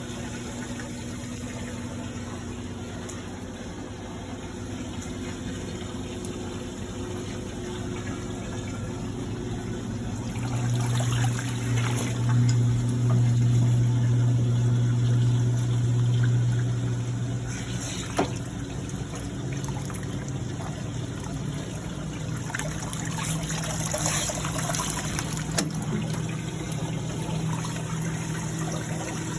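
1950s Maytag wringer washing machine running with its replacement electric motor and belt: a steady motor hum with water sloshing and trickling in the tub. The hum grows louder for several seconds about a third of the way in, then settles.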